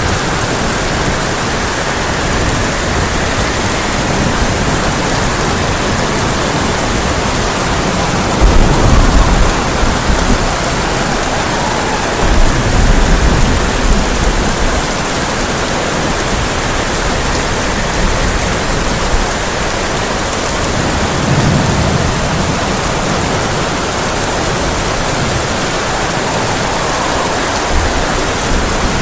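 Heavy rain drumming steadily on a tin roof, with low thunder rumbling in a few times: about eight seconds in, again around twelve seconds, and once more past the twenty-second mark.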